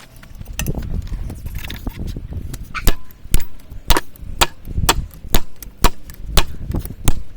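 Hammer blows on a steel drift in the eye of a railroad-spike tomahawk on the anvil, drifting the eye open. It starts with lighter taps, then about a dozen heavy ringing strikes, roughly two a second.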